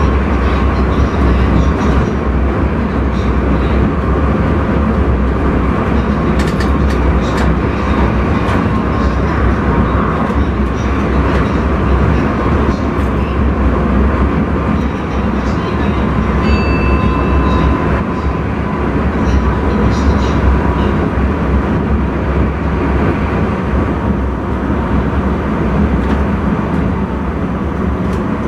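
Intercity train running at speed, heard from inside the driver's cab: a steady rumble and rush of wheels on rail. A few brief clicks come about seven seconds in.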